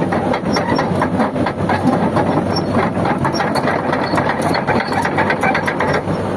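Excavator's diesel engine running steadily with a low hum, with a dense, irregular clatter of clicks over it.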